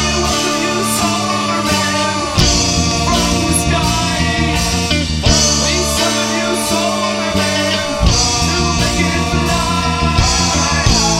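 Indie rock song by a band, with bass and electric guitar and some singing.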